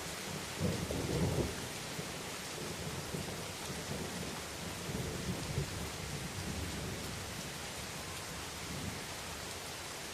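Steady rain falling on leaves, with a low rumble of thunder that swells about half a second in, is loudest for the next second, then rolls on more weakly and dies away near the end.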